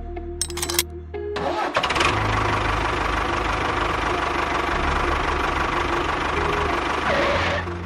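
A machine running steadily, engine-like, starting up after some clicking about a second and a half in and dropping away near the end, with background music underneath.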